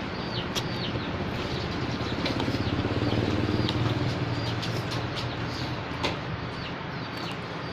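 A low engine hum of passing road traffic swells to its loudest about three to four seconds in, then fades, while small birds give repeated short chirps.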